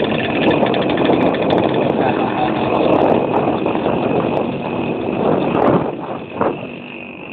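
Motorcycle engine of a tricycle running as it rides along, a steady loud drone that eases off near the end.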